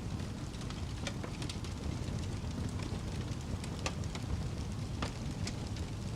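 Fire crackling: a steady low rumble with irregular sharp pops and snaps scattered throughout, a few louder ones standing out.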